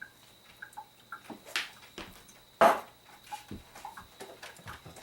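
Scattered light clicks and knocks of vegetable pieces being handled and packed into jars, with one louder, noisy burst about two and a half seconds in.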